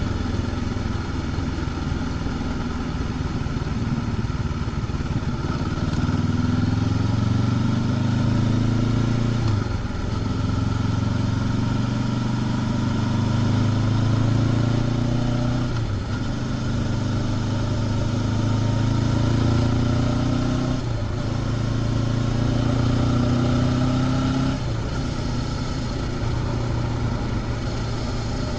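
Honda CB500X's 471 cc parallel-twin engine with its stock exhaust, heard from the rider's seat while the bike gathers speed. The engine note climbs gently in pitch and drops briefly at four breaks, in the way of upshifts through the gears. Near the end it settles to a lower, steady cruise.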